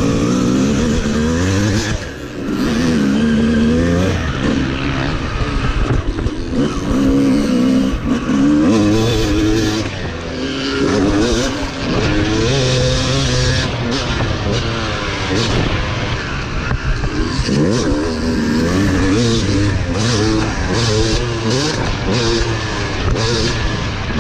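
Motocross dirt bike engine revving hard, its pitch climbing and dropping over and over as the throttle is opened and closed, with short dips where it backs off.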